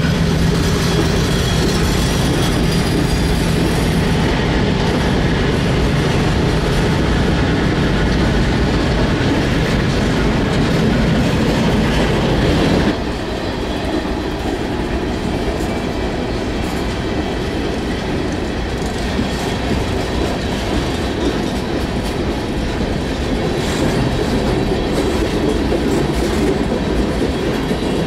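Freight cars of a passing CSX freight train rolling by, the wheels clattering over the rail joints in a steady run. The overall level drops slightly about halfway through.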